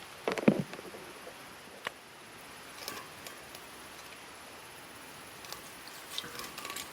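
A short knock about half a second in, followed by a few sharp clicks and light rustling over a faint steady hiss.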